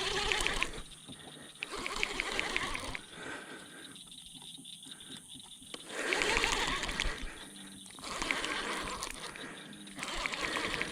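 Fishing reel clicking in several short bursts of rapid ticks while a hooked catfish is fought and reeled in.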